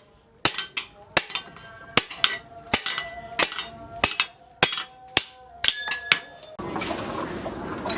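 Hammer blows on steel at the anvil while forging a cleaver blade: sharp strikes about two a second, each with a short metallic ring. A little after six and a half seconds they stop abruptly and a steady rushing noise takes over.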